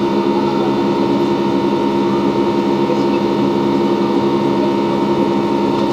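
Steady cabin noise of an Ilyushin Il-96-300 in flight, heard from inside the passenger cabin: the even rush and droning hum of its four PS-90A turbofan engines, with several steady tones over the noise.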